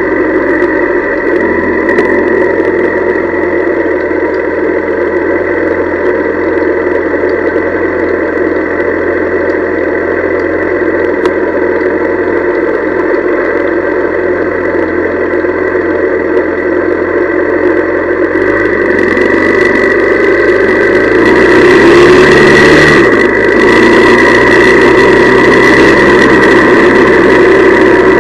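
Honda CL175's small parallel-twin engine running on the move. Late on it grows louder as the engine note rises for about two seconds, then drops suddenly.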